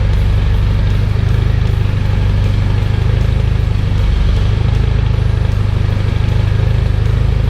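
Nissan S14's turbocharged SR20 four-cylinder engine idling steadily, just after being started.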